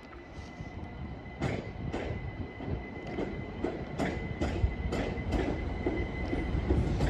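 Southern Class 377 Electrostar electric multiple unit pulling out, its wheels clicking over rail joints and points about twice a second over a low rumble, with a steady high whine.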